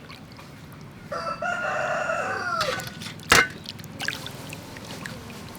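A rooster crowing once, starting about a second in: one call of about a second and a half that drops in pitch at the end. A single sharp knock follows about half a second after the crow.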